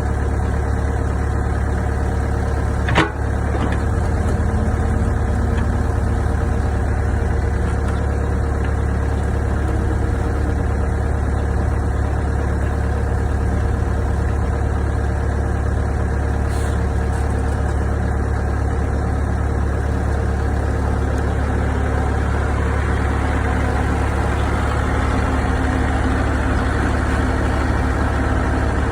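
Excavator's diesel engine running steadily at an even pace, with a single sharp click about three seconds in.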